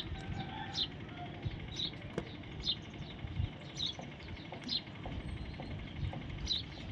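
Parrot giving short, high, pitch-falling chirps, about one a second, over a low background rumble.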